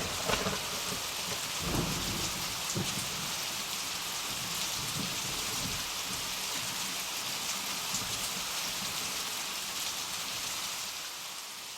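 Steady rain falling, with low rumbles of thunder about two and three seconds in. The rain eases slightly near the end.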